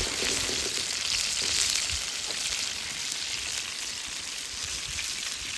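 Food frying in oil in a pan over a campfire: a steady, loud sizzling hiss.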